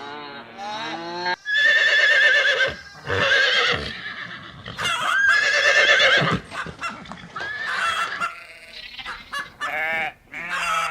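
A series of farm animal calls: several loud, drawn-out pitched cries with short breaks between them, then shorter calls near the end.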